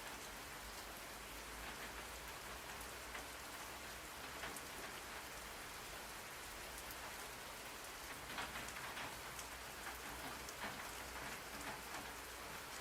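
Steady rain pattering, with a cluster of louder individual drop hits about two-thirds of the way through.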